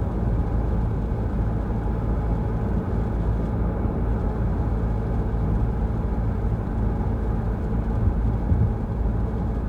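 Car driving at a steady pace: a constant low engine hum with road rumble underneath.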